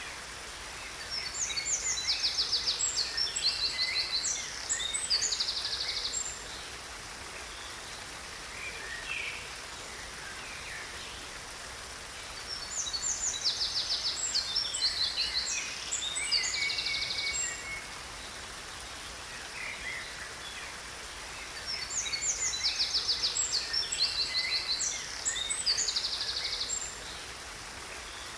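A songbird singing bursts of rapid trills and chirps, three times, with nearly the same phrase coming back about every ten seconds. Underneath is a steady hiss of falling water from a waterfall.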